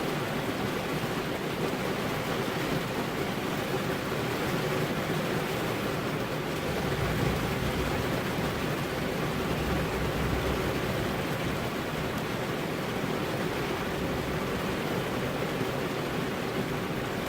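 Steady rain pattering on a car's glass windows, an even hiss. A low rumble of thunder swells midway and dies down after a few seconds.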